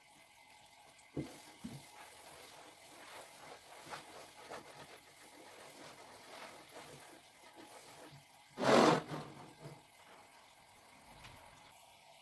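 Washing-up and clearing sounds at a kitchen sink: soft handling noises and a trickle of water, two light knocks a little over a second in, and a brief loud rush of noise about nine seconds in.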